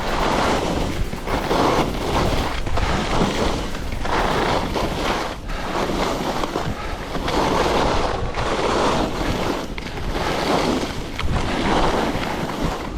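Wind buffeting the camera's microphone: a steady rush that swells and eases every second or two.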